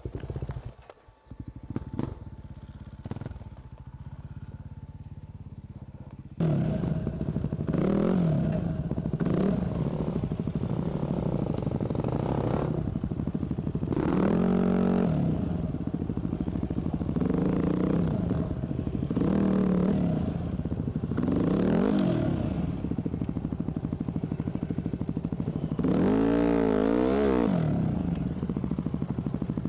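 Dirt bike engine with a few clicks and knocks over a low running sound. About six seconds in it turns abruptly loud and is revved in repeated bursts, its pitch rising and falling every second or two, as the bike is worked over logs on the trail.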